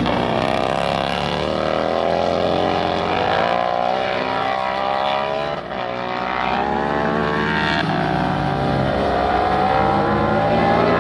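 Racing superbike engines at high revs, several at once, the pitch climbing and dropping as they accelerate, shift gears and pass, with a short dip about halfway through.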